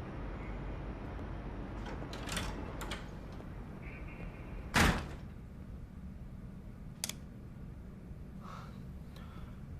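A door shutting with a single solid thud about five seconds in, with a few lighter clicks and knocks before and after it, over a low steady hum.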